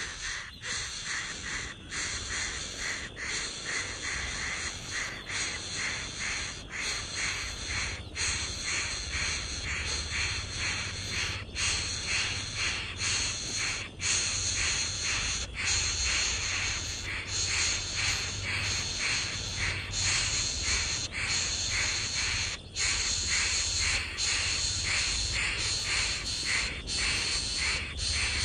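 Harsh bird calls repeating about two to three times a second, over a steady high hiss.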